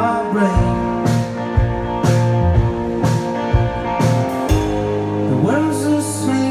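Live rock band playing an instrumental stretch with no singing: electric guitars over bass, and a drum beat hitting about twice a second.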